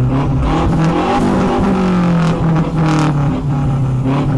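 A car engine running loud and steady, its revs rising briefly about a second and a half in and dropping back.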